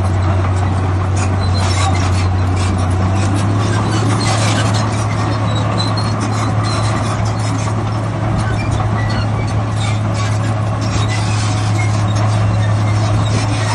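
Heavy diesel earthmoving machinery running steadily at a construction site, with a strong low hum and scattered metallic squeaks and clanks on top.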